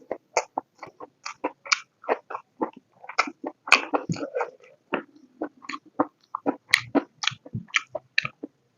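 Close-miked chewing of a mouthful of pork and potato curry: quick wet mouth smacks and clicks, several a second, without pause.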